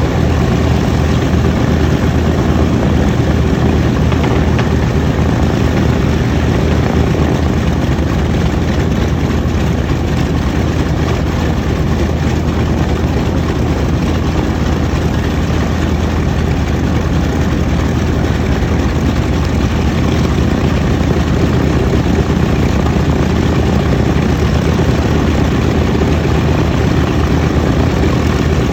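Twin Wright R-2600 radial engines of a B-25 Mitchell bomber running steadily with propellers turning, a loud, even rumble that does not change pitch or level.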